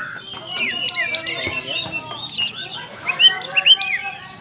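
White-rumped shama (murai batu) in full song: a fast, varied run of whistles and chirps, with its loudest notes a little after three seconds in.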